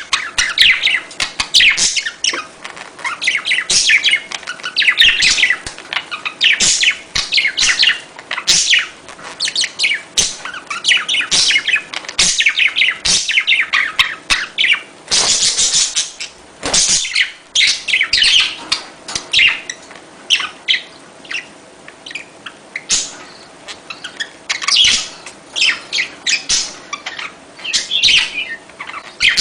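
A flock of budgerigars chattering and warbling, with many quick chirps overlapping without a break. A louder, harsher burst comes about halfway through.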